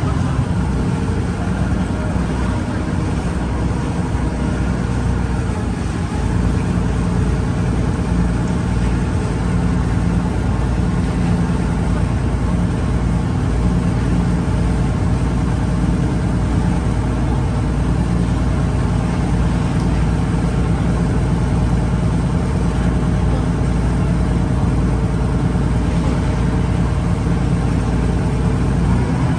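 River ferry's engine running steadily, with a low hum and water noise heard from on board.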